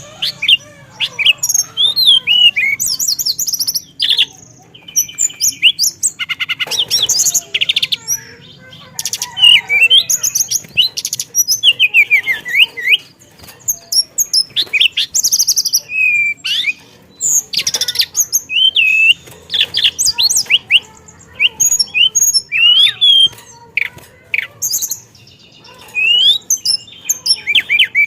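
Teledekan songbird singing in long, rapid, varied runs of sharp whistles, trills and chirps, breaking off in short pauses every few seconds.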